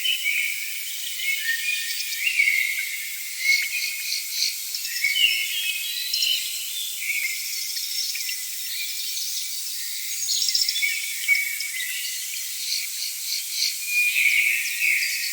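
Rainforest ambience: a dense chorus of insects chirping and trilling, with short pulsed trills repeating now and then over the top.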